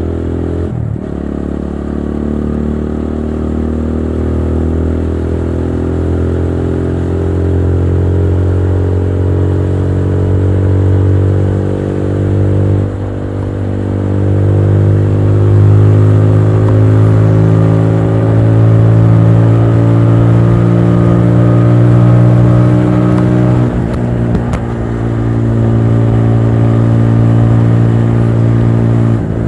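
TVS Apache RTR 200 4V's single-cylinder four-valve engine running under way, its note climbing slowly as the bike gathers speed and then holding and wavering. It drops out briefly three times: about a second in, near the middle, and a few seconds before the end.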